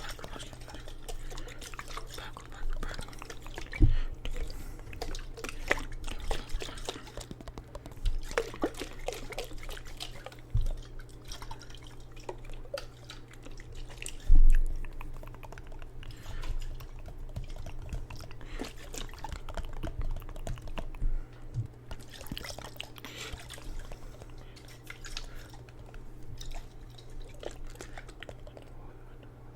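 Water dripping and sloshing in a jar as an ASMR trigger: many small irregular drips and splashes, with a couple of louder low thumps, over a steady low hum.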